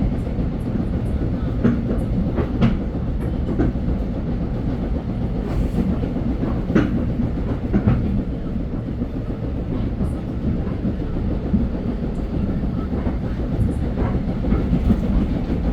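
Metro-North commuter train running on the rails, heard from inside a car: a steady low rumble with scattered sharp clacks every second or so.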